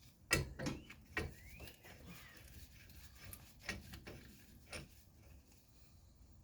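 Metal hand tools being handled and knocked together: five sharp, irregularly spaced clanks, the loudest about a third of a second in.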